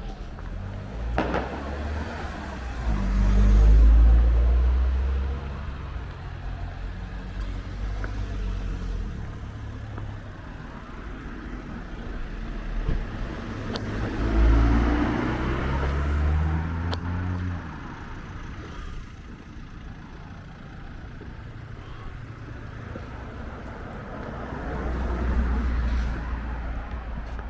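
Cars driving past on a street, three in turn, each engine swelling up and fading as it passes, one audibly accelerating with a rising engine note.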